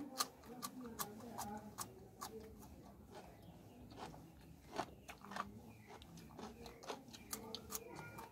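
Raw cucumber being bitten and chewed close to the mouth: crisp, irregular crunches and wet mouth clicks, a few each second.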